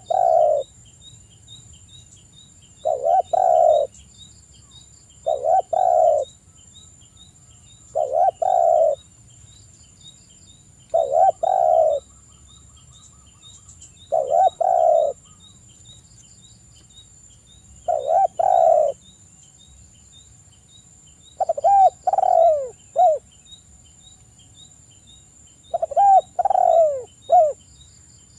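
Spotted dove (tekukur) cooing: a phrase about every three seconds, nine in all, the last two broken into three quick notes. Behind it run a faint steady high whine and soft rapid high chirping.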